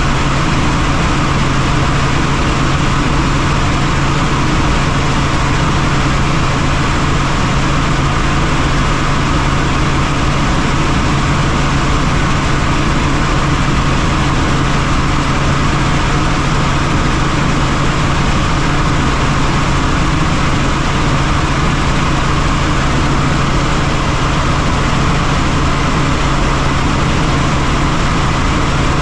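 Helicopter in flight: loud, steady rotor and engine noise with a constant low hum.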